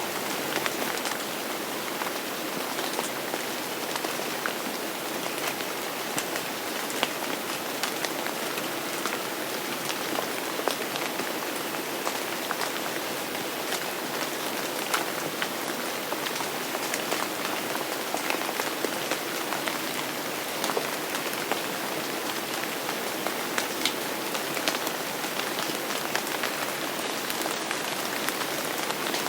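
Steady rain falling and pattering on a surface, a dense even hiss with many distinct drop ticks scattered through it.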